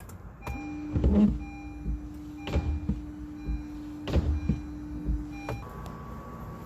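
Car windshield wipers running: a steady electric motor hum with a noisy sweep of the blades about every second and a half, the abnormal wiper noise the customer complains of. The motor stops a little over five seconds in.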